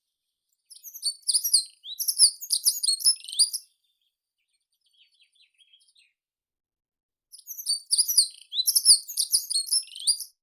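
A meadow songbird singing two phrases of rapid, high chirping notes, each about three seconds long, with a faint softer twitter in the pause between them.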